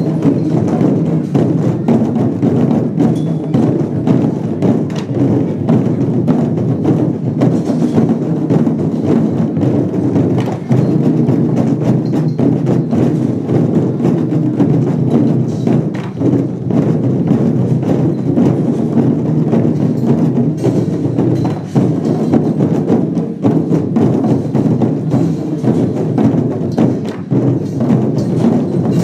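Lion dance percussion playing continuously: a big drum beaten along with gongs and cymbals.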